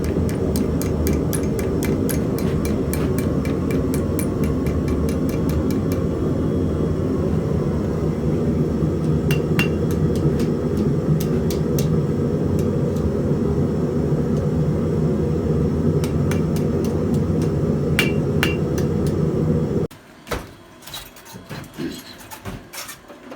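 Hand hammer striking hot steel on an anvil: a quick run of ringing blows, about four a second, then slower, spaced strikes. A loud steady forge roar lies under the blows and cuts off suddenly near the end.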